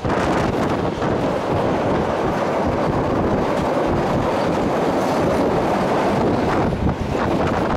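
Train running along the track: a steady rumble of wheels on rails, with wind noise on the microphone.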